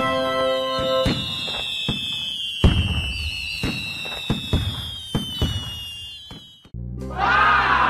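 Fireworks sound effect: several long whistles falling slowly in pitch over a string of pops and bangs, the heaviest bang a little before the middle. It cuts off shortly before the end, where a low steady hum with a sweep that rises and falls takes over.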